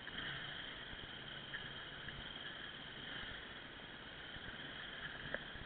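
Off-road motorcycle engine running low and muffled under a steady hiss, with a couple of small knocks near the end.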